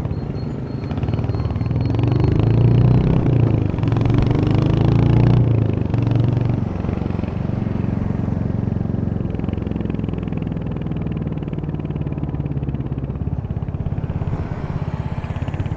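Royal Enfield Hunter 350's 349 cc single-cylinder engine and exhaust under way, as heard from the rider's position: it rises in pitch twice as the bike accelerates through the gears in the first half, then settles into steady, lower running.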